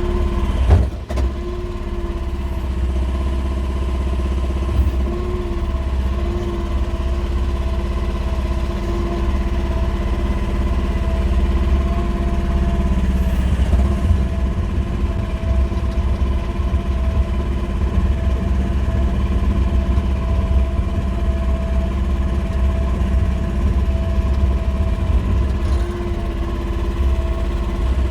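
QH13R mini excavator's small diesel engine running steadily, with a steady whine over it. A sharp knock comes about a second in.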